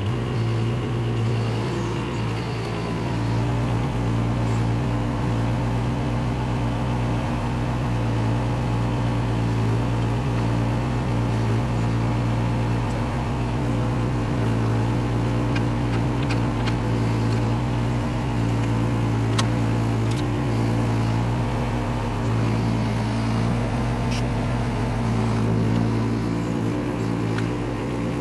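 Diesel engine of a Case 420CT tracked skid steer running steadily, getting louder right at the start, with a few sharp clicks in the second half.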